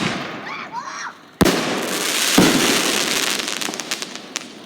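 Consumer fireworks going off: a sharp bang about a second and a half in, then a long hiss with a second thump and a run of quick crackling pops near the end.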